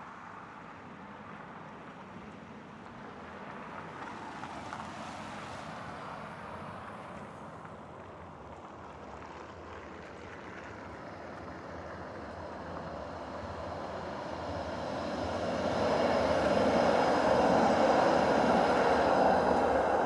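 A vehicle approaching and passing close. Its noise swells over several seconds to a peak near the end, with a faint high whine riding on top.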